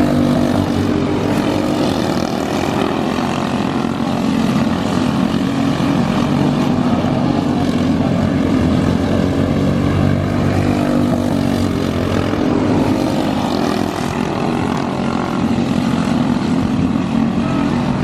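Outlaw kart engine running hard during a dirt track race, its pitch rising and falling with the throttle.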